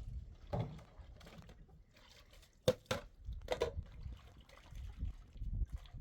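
Water splashing, with two sharp knocks close together a little before halfway and another shortly after.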